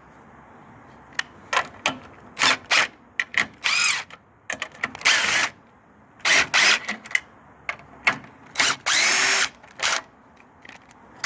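Power drill/driver running in a string of short bursts, a few longer runs with the motor pitch rising and falling, as bolts are run in or out on a snow blower's electric starter.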